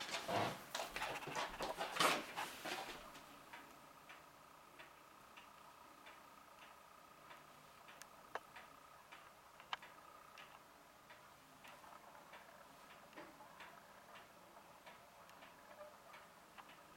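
A clock ticking faintly and evenly, after about three seconds of louder rustling and knocking at the start; a faint steady hum sits under it.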